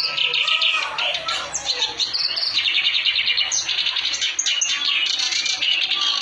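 Kerak basi (reed warbler) singing continuously, a long run of rapid repeated chattering notes.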